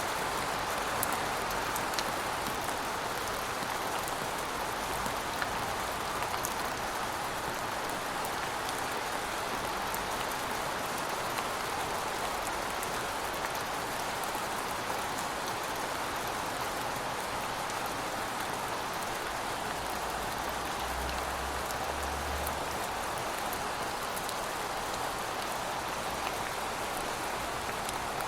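Steady rain falling, an even hiss with scattered drop ticks, and a brief faint low rumble about three quarters of the way through.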